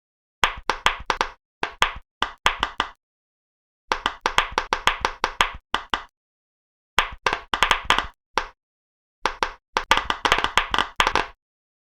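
Silicone pop-it fidget toy bubbles being pressed: quick runs of small sharp pops, each run lasting a second or two, with short stretches of dead silence in between.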